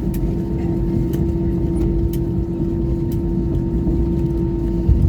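Cabin noise of an Airbus A320-214 taxiing after landing, heard from inside the cabin: its CFM56 engines idling, a steady hum with one constant mid-pitched tone over a low rumble.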